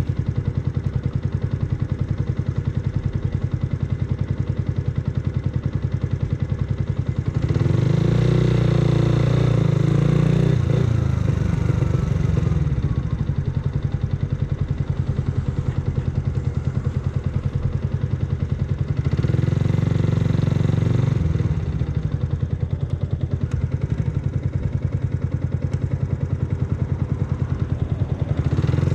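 Yamaha YZF-R125's single-cylinder four-stroke engine through an aftermarket full exhaust, pulsing steadily at low revs. It opens up and gets louder about a quarter of the way in and again past halfway, and rises once more near the end.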